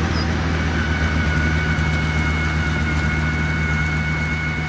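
Heavy earthmoving machine's engine running steadily at low revs, with a thin high whine held above it.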